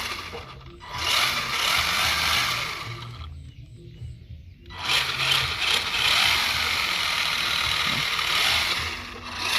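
Electric RC car running hard in three long bursts of throttle, with short pauses between them.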